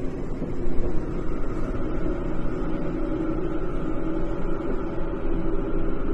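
Tokyo Metro 10000 series electric train running at speed between stations, heard inside the car: a steady rumble of wheels on rail with a steady motor hum. A higher tone joins about a second in.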